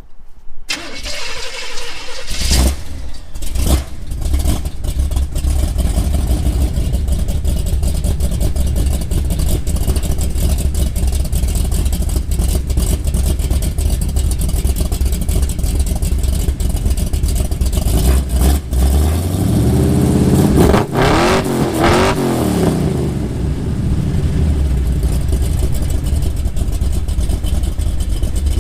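1972 Chevelle's 454 big-block V8 starting and settling into a loud idle through a new 2.5-inch Magnaflow single-chamber exhaust that ends just before the rear axle. About twenty seconds in it is revved up and back down over a few seconds, then returns to idle.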